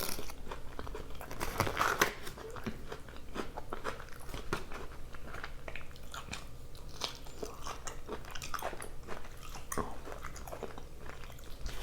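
A person chewing and biting food with wet, crunchy mouth sounds: many small irregular clicks and smacks.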